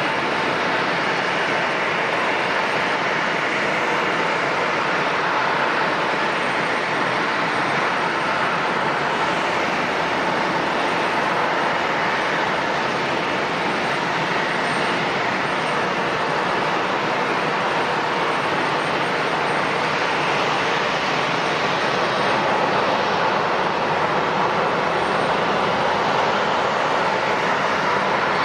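Jet airliner engines running, a steady loud rush with a faint whine.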